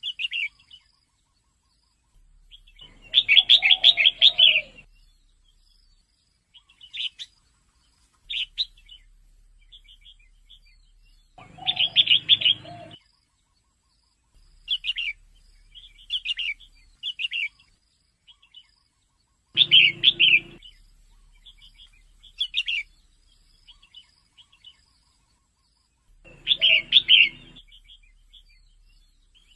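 Female red-whiskered bulbul calling: short, high chirps, with a louder chattering call about every seven to eight seconds, four times. It is the kind of call played to caged males to stir them into singing and hopping on the perch.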